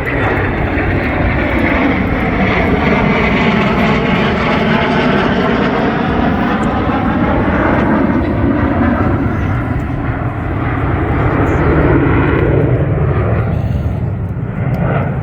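Fixed-wing aircraft flying past low and loud, a continuous engine rush whose pitch sweeps down and then back up as it passes.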